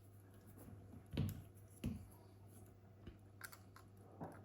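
A handful of short clicks and soft knocks of tools and small parts being handled on a workbench, over a steady low hum.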